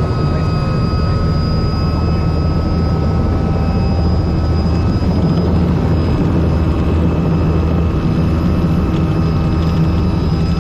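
Robinson R44 helicopter running steadily: a loud, even drone of rotor and engine with a thin steady whine above it.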